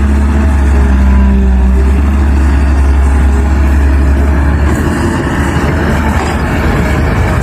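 Diesel engine of a Caterpillar 320 hydraulic excavator running steadily, a loud, deep drone.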